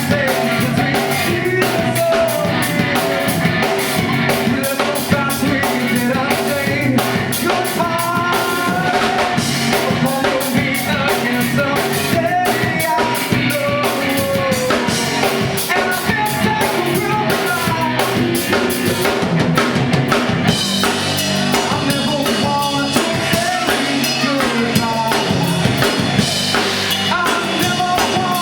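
A rock band playing, with a drum kit keeping a steady beat under bass and melodic lines; the cymbals get louder and busier about two-thirds of the way through.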